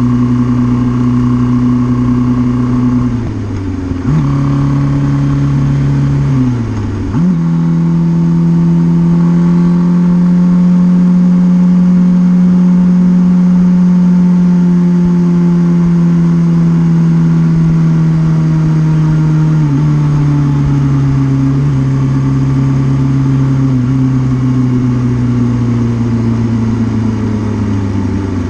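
Suzuki GS650G motorcycle's air-cooled inline-four engine running under changing throttle. The pitch dips and jumps higher twice in the first seven seconds, then holds a steady high note that slowly sinks, with a small step down about twenty seconds in.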